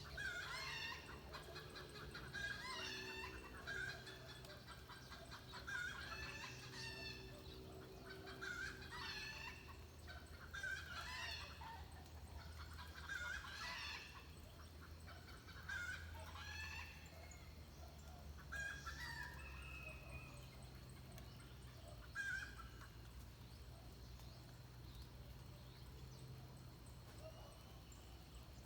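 Birds calling over and over, short pitched calls every second or two that thin out and fade near the end, over a faint low hum.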